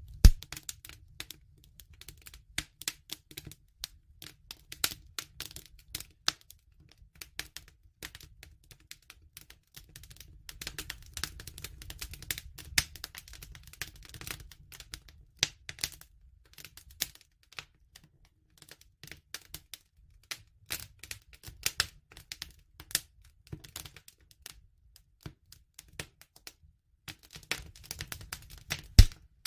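Wood fire crackling: irregular snaps and pops over a low rumble, with a couple of louder cracks just after the start and near the end.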